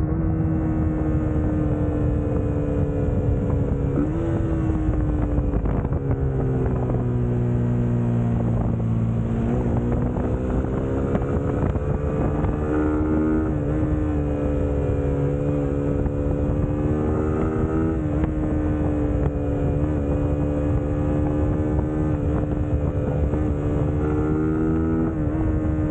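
Suzuki GSX-S150's single-cylinder engine running at steady riding revs, its pitch sagging slowly for a few seconds and picking up again about ten seconds in, with several brief dips in revs along the way. Wind on the microphone runs under it.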